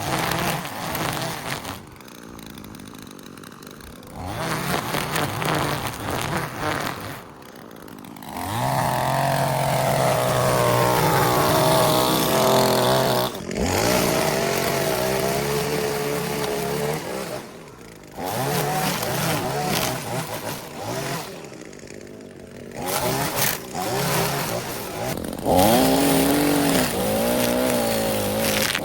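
Small gasoline engine of lawn equipment running, its pitch rising and falling as the load changes, with a few short, sudden breaks.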